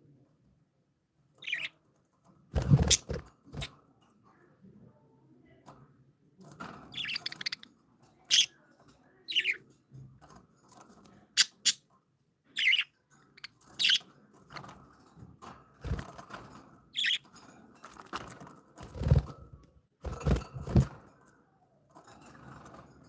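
Pet budgerigars chirping in short, scattered calls, some gliding in pitch, among knocks and rustling from the birds moving about. A few sharp knocks, the loudest about three seconds in and again near the end, stand out.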